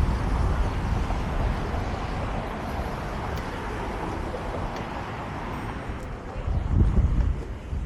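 Road noise heard from a moving fixed-gear bike: a steady rumble of passing traffic mixed with wind buffeting the camera microphone. It swells briefly about two-thirds of the way in.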